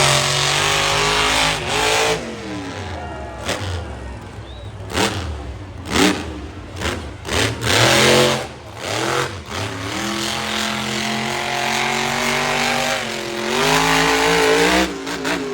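Monster truck engine revving hard, its pitch climbing and dropping over and over with several sudden loud throttle surges, and a steadier held rev in the second half before a final climb.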